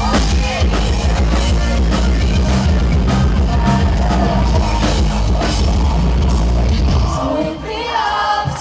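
Live metal band playing loud, with heavy drums and bass under guitars and vocals. About seven seconds in the heavy low end drops out and a sung vocal line carries on over lighter backing.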